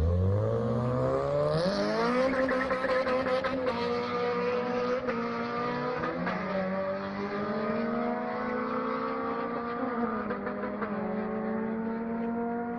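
Honda K20 four-cylinder engine revving up steeply over the first two seconds. It then holds high revs steadily, with the pitch drifting only slightly.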